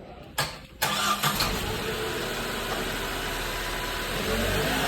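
Tata Nexon engine being cranked by the starter and catching within about a second, then idling steadily.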